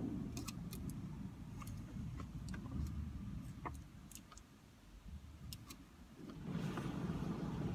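Automatic car wash heard from inside the car's cabin: a muffled low rumble with scattered light taps and clicks on the bodywork. A rush of noise swells up about six and a half seconds in.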